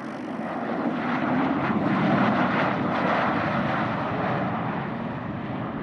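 Bombardier Learjet 60's twin Pratt & Whitney PW305A turbofans, a jet rush on landing that swells to its loudest about two seconds in and then slowly fades.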